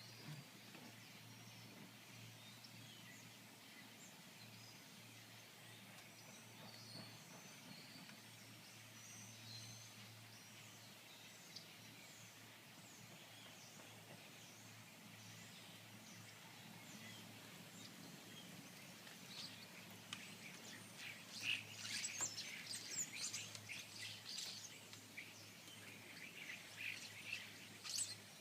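A flock of small birds chirping, a few scattered calls at first, growing into dense, overlapping chatter in the last third.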